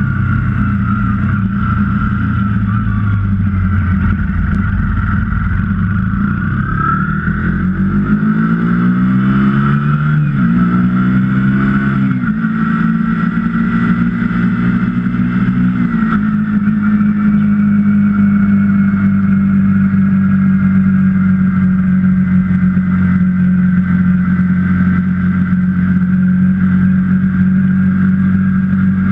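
KTM 125 Duke's single-cylinder four-stroke engine pulling away, revving up through the gears with three upshifts where the pitch drops back, then running at a steady cruising speed.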